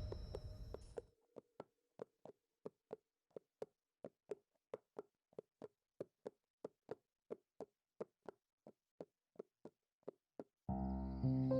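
A long run of short, sharp knocks, about three a second and evenly spaced, over silence. Music comes in near the end.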